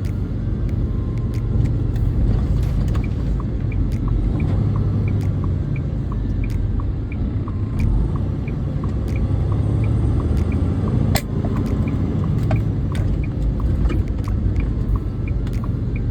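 2022 International semi truck's diesel engine running steadily while driving, a low rumble heard inside the cab, with a light regular ticking about two to three times a second.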